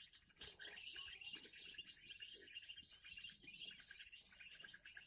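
Small birds chirping and twittering in quick, faint calls over a steady high insect drone.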